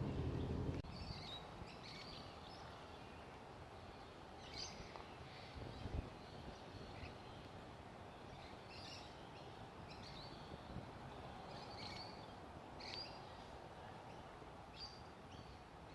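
Faint outdoor ambience with scattered short, high bird chirps every second or two. A louder low rumble in the first second cuts off abruptly, and a single soft knock comes about six seconds in.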